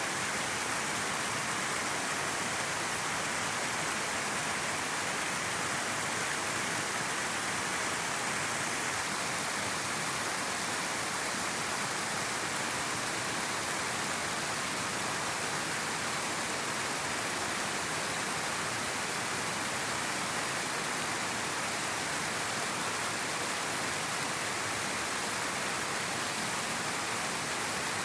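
River water flowing and rushing over rocks, a steady even noise that holds level throughout.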